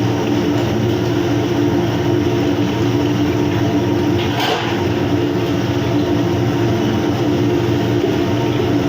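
Steady low machinery hum with a faint hiss over it, and one short clatter about halfway through.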